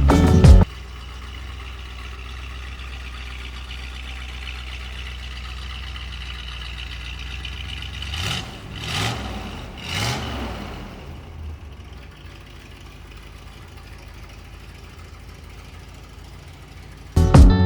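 1968 Corvette's 327 small-block V8 idling steadily, blipped three times in quick succession about halfway through, then settling back to a lower idle.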